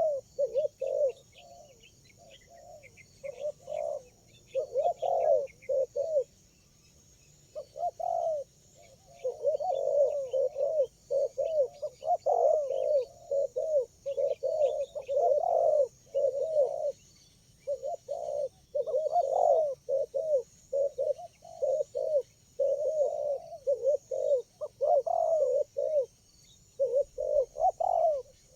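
Spotted doves cooing: short low coos in repeated phrases, sparse at first and then almost continuous from about nine seconds in, with several birds calling over one another. Faint high chirps sound in the background.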